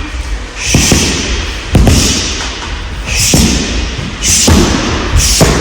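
Strikes landing on a rolled-up mat target, about five dull thuds spaced roughly a second apart, each with a short sharp hiss of exhaled breath.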